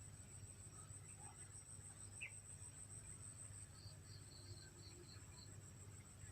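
Faint, steady, high-pitched trill of insects such as crickets, with a few faint short chirps over it.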